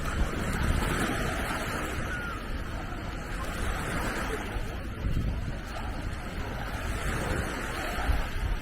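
Mediterranean sea waves washing onto the beach, with wind gusting on the microphone as a low rumble.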